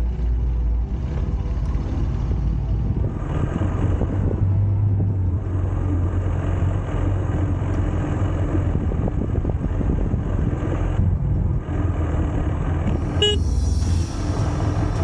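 KTM 390 motorcycle's single-cylinder engine running steadily under way, with wind rushing over the camera microphone. A brief vehicle horn toot about 13 seconds in.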